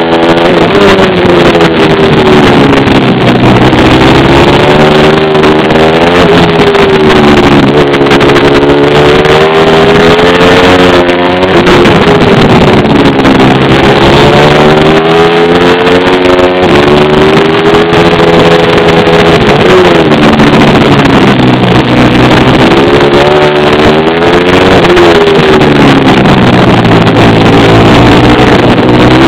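Pit bike engine being revved up and backed off again and again, its pitch climbing hard and then falling away every few seconds, loud throughout.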